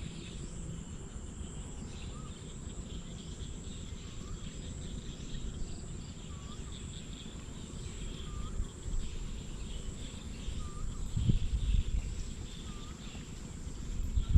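Outdoor ambience: a steady high insect drone, with a faint short bird call repeating every second or two. Under it is a low rumble that gets louder after about eleven seconds.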